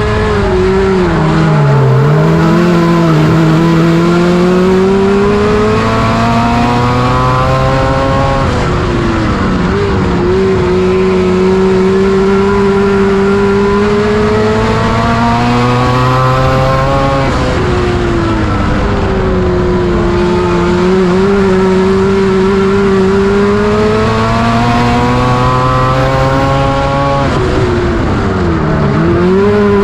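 Race car engine working around a short oval. Its pitch climbs steadily for several seconds down each straight, then drops sharply as the driver lifts for the turn, about every nine seconds, three times.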